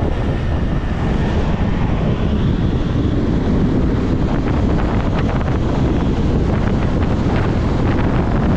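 Steady wind buffeting the microphone on a moving motorcycle, a loud low rumble with road and engine noise underneath.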